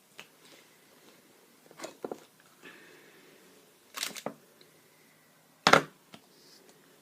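Paint supplies being handled on a tabletop: a few sharp clicks and knocks, the loudest one near the end, with a short scrape in between.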